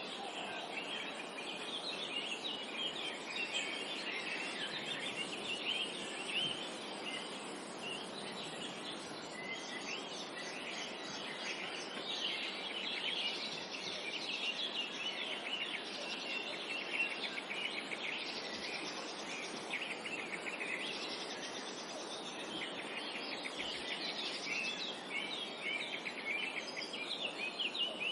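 Many birds chirping and singing together in a forest, a dense chorus of short, high chirps and trills over a steady background hiss.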